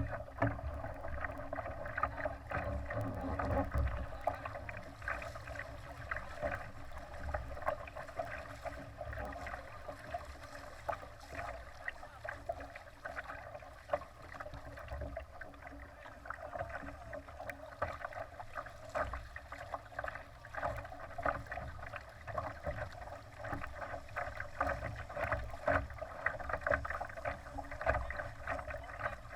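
Water splashing and slapping irregularly against the hull of a Laser sailing dinghy under way, over a steady low rumble.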